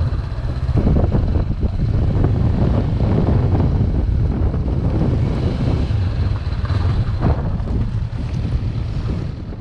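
Heavy wind buffeting the microphone, a loud, rough rumble.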